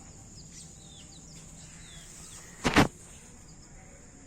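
Bantam and aseel chicks peeping faintly, short falling chirps several times. A brief loud bump near the middle.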